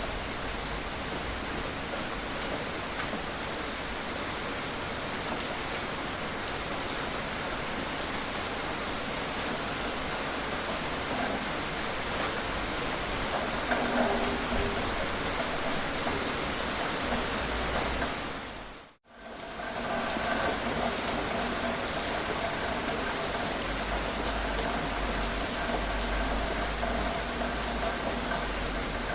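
Steady gentle rain falling, a continuous even hiss with the patter of drops. About two-thirds of the way through, it fades out to silence and straight back in, as at a loop join, after which faint steady tones sit under the rain.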